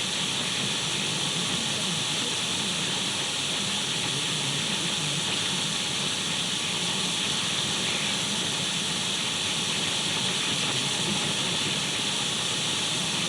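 Steady radio static: an untuned radio's even hiss, strongest in the upper middle, with no changes.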